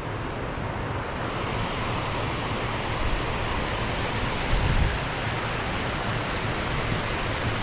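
Waterfall rushing steadily: a thunderous, continuous noise of water falling over several drops into splash pools.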